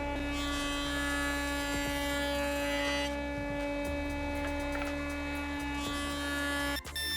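Wood router or milling machine running steadily at high speed, a constant high whine with many overtones. It cuts off abruptly near the end.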